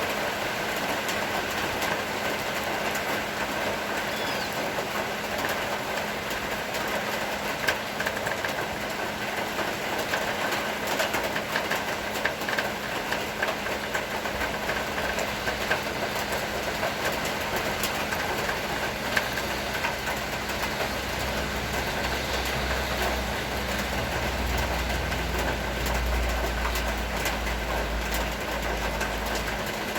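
Rain falling steadily, with many small drop ticks over an even hiss and a faint steady hum. A low rumble builds in the last third.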